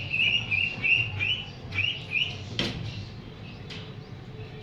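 A bird gives a rapid run of short, high peeps, about three a second, that stops a little over two seconds in. One sharp knock follows soon after.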